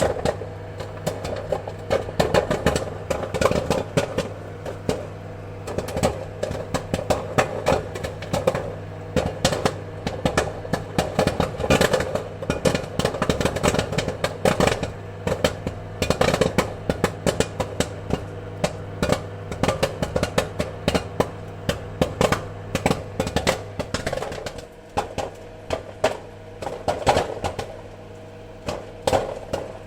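Popcorn kernels popping: many sharp, irregular pops, often in quick clusters, over a steady low appliance hum. The hum drops away about 24 seconds in while the popping goes on.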